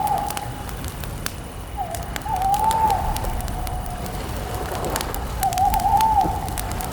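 Campfire crackling and popping while a bird calls twice in long, wavering, gliding notes, about two seconds in and again near the end.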